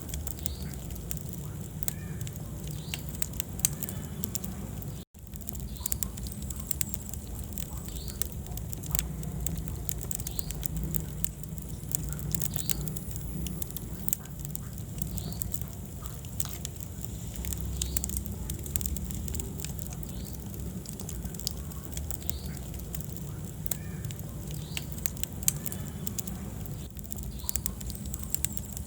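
Wood fire crackling in a fireplace: frequent sharp pops and snaps over the low rumble of the flames. The sound cuts out for an instant about five seconds in.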